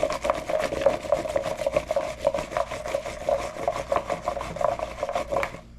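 Oiled, seasoned asparagus spears being shaken in a bowl, a fast, even run of rattling, rubbing strokes against the bowl that stops near the end.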